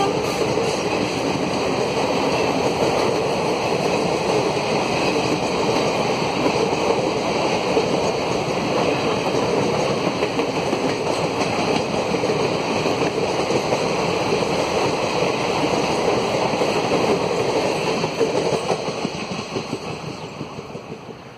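Passenger coaches of an express train rolling past at speed, a steady rush of wheels on rail. It fades away over the last few seconds as the end of the train goes by.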